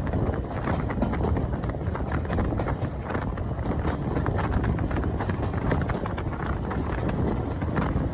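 Steam-hauled train running: a fast, uneven rhythmic clatter over a steady rushing noise, from the LMS Royal Scot class 4-6-0 locomotive and its train.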